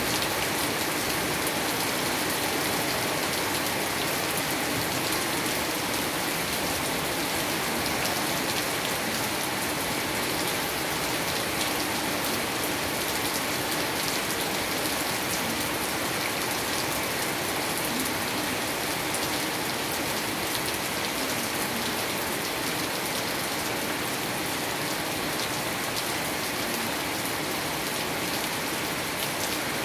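Heavy rain falling steadily on a paved street and roofs, an even, unbroken hiss.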